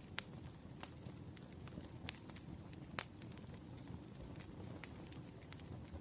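Wood fire burning with a low steady rumble and scattered sharp crackles and pops from the burning logs, three of them louder than the rest.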